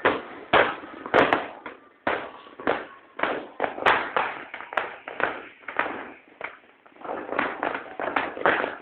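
Fireworks and firecrackers going off: a string of sharp bangs at irregular intervals, roughly two a second, each trailing off briefly.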